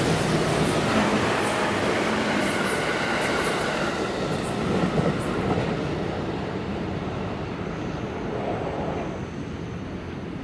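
Electric train running past on the track, a continuous rumble of wheels on rail with a faint motor whine, dying away near the end.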